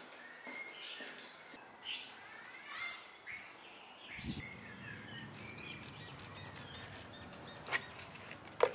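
Birds chirping and calling, with a loud falling whistle partway through the first half. A couple of sharp knocks come near the end.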